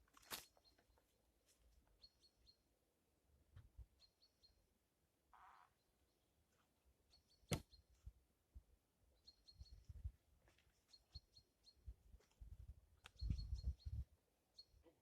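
Small birds calling in short clusters of quick high chirps, with a couple of sharp knocks and some soft low thumps.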